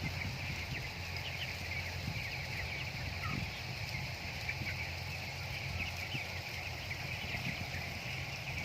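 A flock of broiler chickens cheeping continuously, many short high peeps overlapping, with soft irregular knocks underneath.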